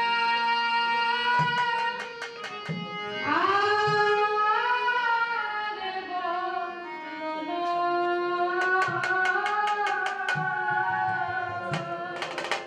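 Folk song with singing and hand-drum accompaniment: a held instrumental note opens, a voice comes in with sliding pitches about three seconds in, and quick runs of drum strokes punctuate it.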